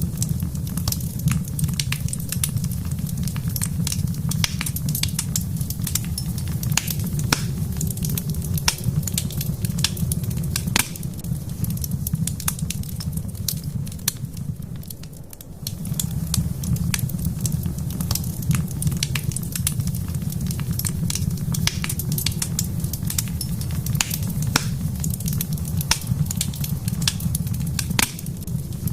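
Wood fire burning in a fireplace, crackling with frequent sharp pops and snaps over a steady low rumble; the rumble fades out about halfway through and comes back a moment later.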